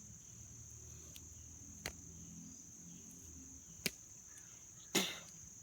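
Insects, likely crickets, give a steady high-pitched drone. Three sharp knocks come about two seconds apart, the last one a little longer.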